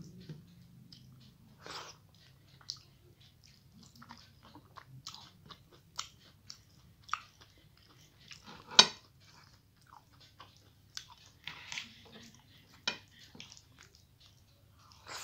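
Close-up eating sounds: chewing and wet mouth clicks as rice and vegetable curry are eaten by hand, with scattered crunches, the loudest and sharpest about nine seconds in.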